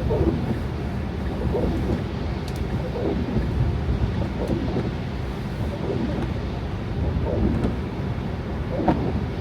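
A car driving on snow-covered roads: a steady low rumble of tyres and engine, with a few soft thumps scattered through.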